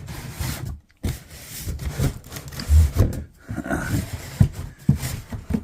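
Firework boxes and a crate being shifted and rummaged through: cardboard and wood rubbing and scraping, with a dull thump about three seconds in.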